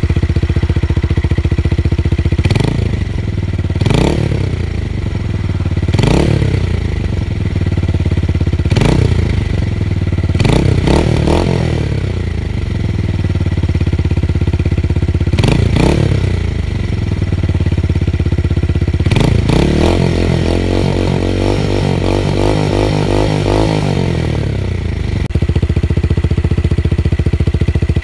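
Tuned motorcycle engine idling with a deep bass exhaust note, blipped to short, quick revs several times. Around twenty seconds in, it runs for a few seconds with a wavering, burbling note, then settles back to a steady idle.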